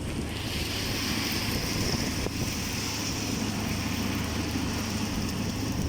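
Heavy rain pouring, with wind rumbling on the microphone; a steady hiss swells up shortly after the start and holds.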